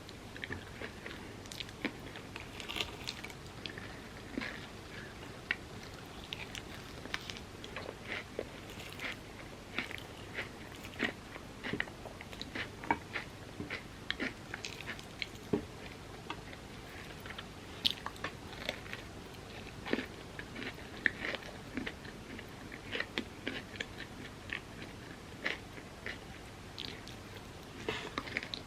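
Close-miked chewing and crunching of overnight oats with a crisp pistachio kataifi and hardened chocolate topping: irregular wet bites and crackles, several a second.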